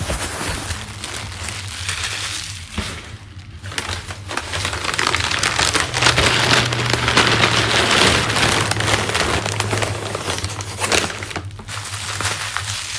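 Packing paper being crumpled and rustled by hand, a continuous crackling that grows loudest in the middle stretch.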